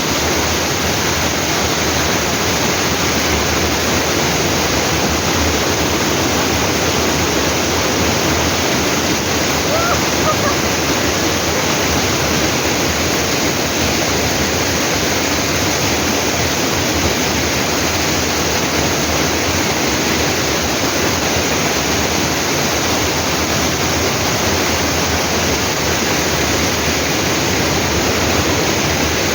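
Waterfall: a loud, steady rush of falling water, even throughout.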